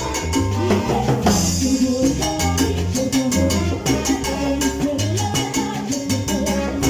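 Salsa band playing at rehearsal: a bass line under dense, even percussion strikes, with a cymbal crash about a second in.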